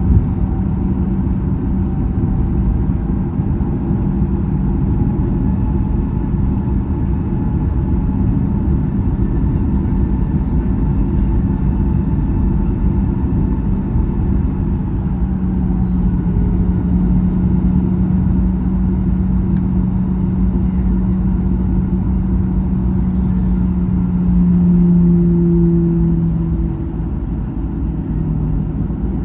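Boeing 737-800 cabin noise: a steady low rumble with the jet engines' hum. It swells slightly about 25 seconds in, then eases off.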